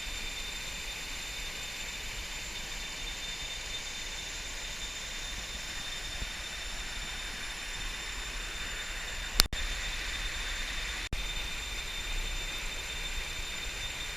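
Steady tropical forest ambience: a continuous insect drone with thin, steady high-pitched whines, over a low rumble. A single sharp click comes about nine seconds in, and the sound briefly drops out about two seconds later.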